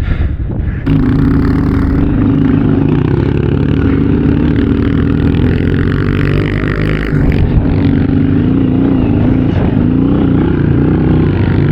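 110cc single-cylinder four-stroke pit bike engine running. About a second in it jumps louder as the throttle opens, then holds a fairly steady note that wavers a little in pitch later on.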